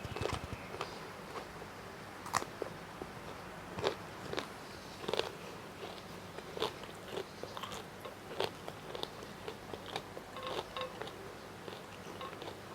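A person chewing and crunching food close to the microphone: sharp, crisp crunches come irregularly every second or two over softer, wet chewing.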